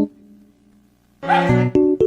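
Piano background music with a short pause, then a small spitz dog barks once a little over a second in, over the piano notes.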